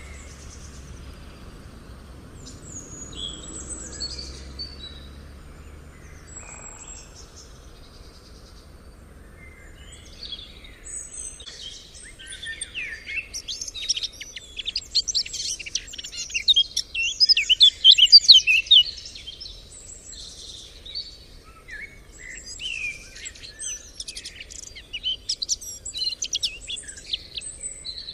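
Small birds chirping and singing: scattered high calls for the first ten seconds, then a dense run of rapid trills, loudest a little past halfway, easing back to scattered chirps near the end.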